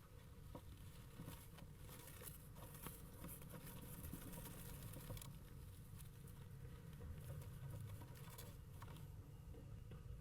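Faint scattered scratching and light pattering over a low steady rumble.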